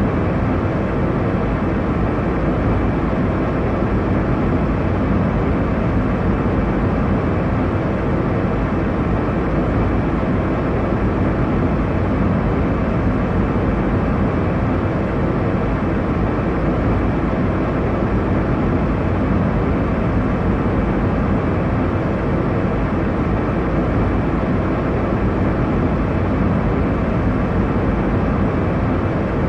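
Steady airliner cabin noise in cruise: a low, even rush of engine and airflow noise with no changes.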